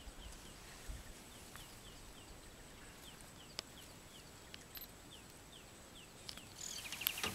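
A bird repeating a short, faint falling chirp about twice a second, with a louder burst of busier bird calls near the end.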